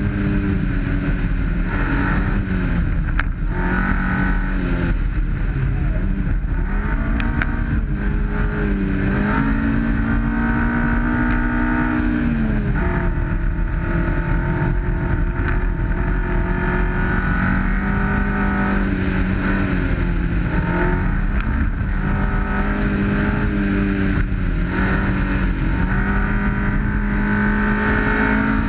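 1991 Honda CRX's twin-cam ZC four-cylinder engine pulling hard at high revs. Its note sags and climbs back several times as the revs change between corners, over a steady rumble of tyres on gravel.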